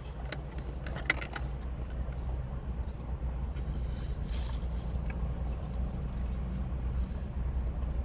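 Steady low hum of an idling car engine, with a few light clicks about a second in and a short rustle around four seconds in.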